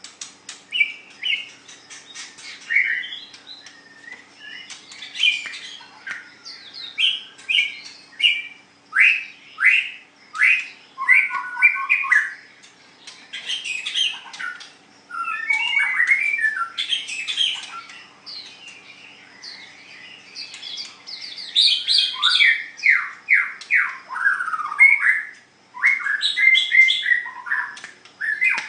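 White-rumped shama singing a long, varied song: phrase after phrase of loud whistles, sweeping notes and rapid runs of short notes, with brief gaps between phrases.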